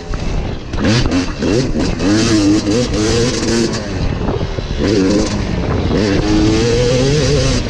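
Dirt bike engine being ridden hard, its pitch climbing and dropping again and again with throttle and gear changes.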